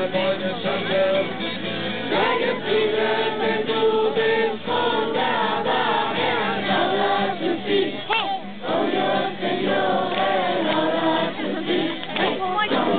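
A group of young people singing a worship song together in unison, many mixed male and female voices.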